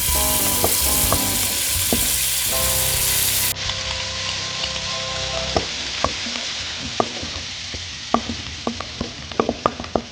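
Food sizzling as it fries in hot oil in a miniature pan, a steady hiss with sharp clicks that come more often over the last few seconds. A light backing tune plays over the first half.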